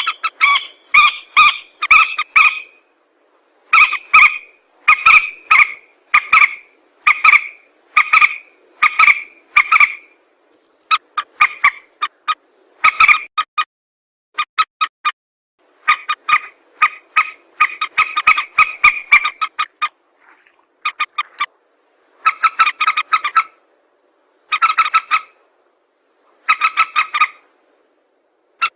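Recorded calls of a mandar, a rail or gallinule, played in a loop as a bird-trapping lure. The calls come in loud, rapid runs of repeated notes, each phrase a second or two long, with short pauses between them.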